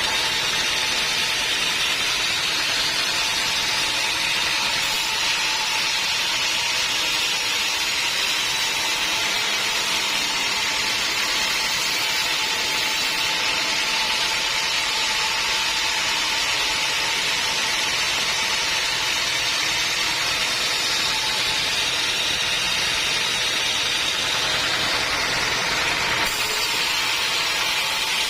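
Homemade band sawmill running steadily under power, sawing a teak log, with a constant whine over the machine noise.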